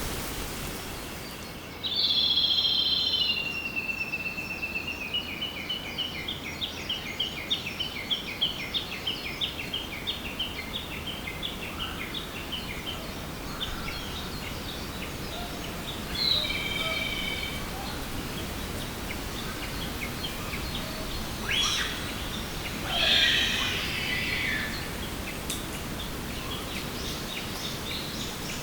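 A songbird singing over a steady background hiss: a held note that slides down, then a long run of quick repeated notes lasting about ten seconds. Shorter calls follow later, one loudest near the end.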